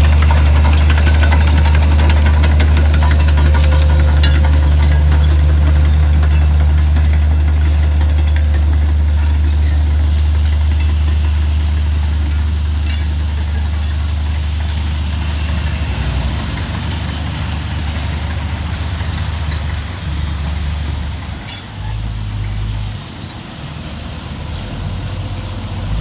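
Heavy diesel engine of earthmoving machinery running with a loud, deep, steady drone. The drone eases off over the second half and turns uneven, with brief dips in level near the end.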